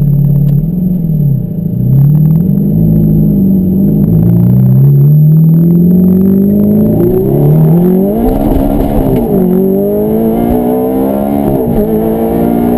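Ferrari F430's V8 running through a Tubi exhaust with a catalytic-converter bypass, heard from inside the cabin under acceleration. Its pitch climbs with the revs several times, each climb ending in a quick drop before it rises again.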